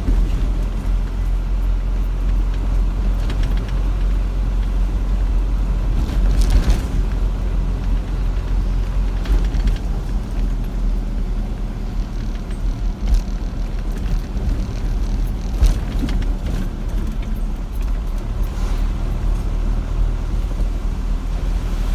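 Car driving on a road: a steady low engine and road-noise rumble, with a few short knocks at intervals.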